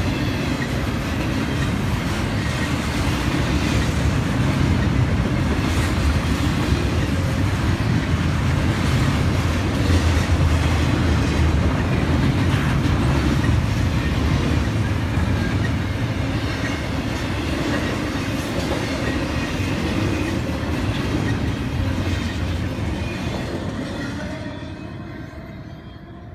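CSX double-stack intermodal freight train rolling past close by: a steady rumble of wheels on the rails, fading over the last few seconds as the end of the train passes and pulls away.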